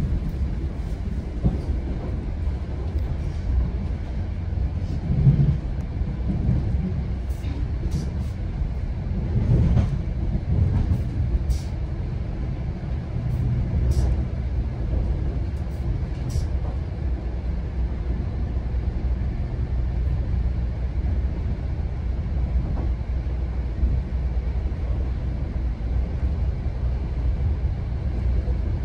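GO Transit commuter train running along the rails, heard from on board: a steady low rumble of wheels and running gear, with a few faint high clicks in the first half.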